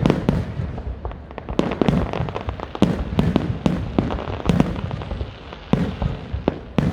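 Aerial fireworks going off in a rapid, irregular barrage of sharp bangs and booms, several a second, over a continuous low rumble.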